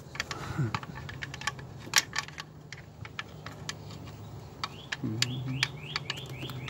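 Irregular light clicks and taps of hand tools on metal while feeling for and working a valve cover bolt on an engine. A bird chirps a quick run of notes near the end.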